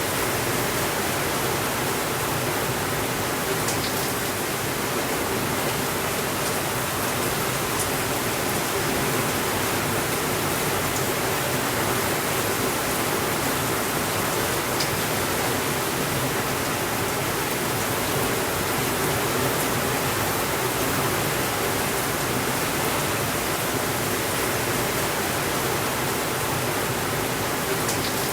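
Heavy rain falling steadily in an even hiss, with a few faint crackles from a wood fire.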